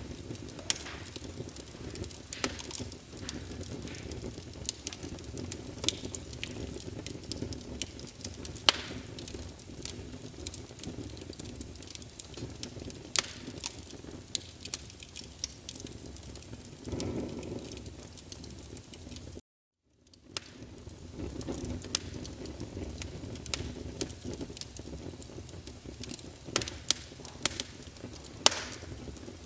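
Wood fire burning in a fireplace: a steady low rumble with irregular sharp crackles and pops. The sound cuts out completely for about half a second about two-thirds through, then comes back.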